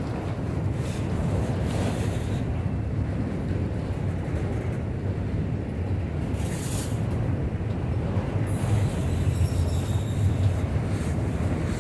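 Autorack freight cars rolling past, a steady rumble of steel wheels on rail with scattered clicks. A faint high squeal joins in about two-thirds of the way through.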